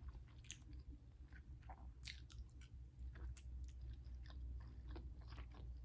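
A person chewing mouthfuls of a turkey bacon and egg sandwich on toasted bread, close to the microphone: quiet, irregular mouth clicks and smacks.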